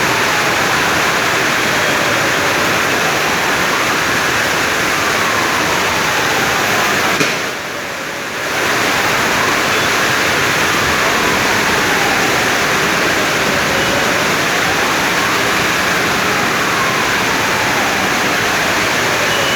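Heavy rain as a steady, dense hiss, with a faint whooshing sweep that falls and rises again every few seconds. The sound dips briefly about seven seconds in.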